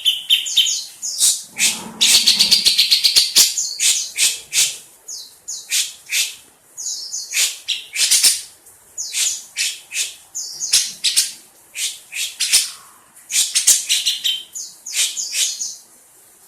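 Cucak jenggot (grey-cheeked bulbul) calling: a long run of short, scratchy chattering notes with a few brief whistled notes mixed in, stopping shortly before the end.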